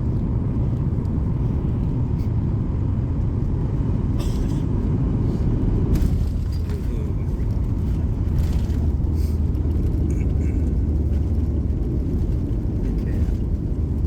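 Airliner cabin noise during the landing: a steady low rumble of engines and airflow, with a short knock about six seconds in.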